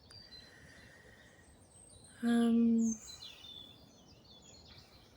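Woodland background with birds chirping, broken about two seconds in by a woman's short hummed 'mm', held on one pitch for under a second.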